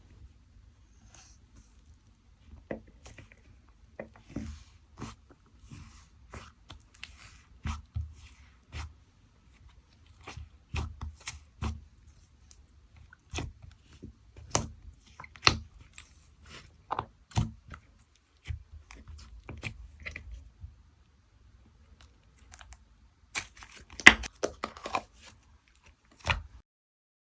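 Clay-mixed slime being squished, stretched and poked by hand, giving off irregular sticky clicks and small crackling pops, with the loudest burst of crackles near the end.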